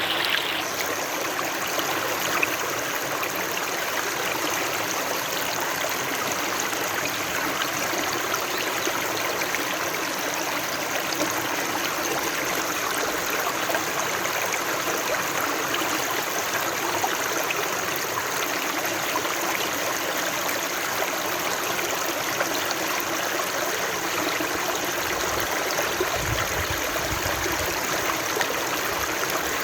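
Running water, a steady even rush and babble of flowing water, with a brief low rumble underneath about 26 seconds in.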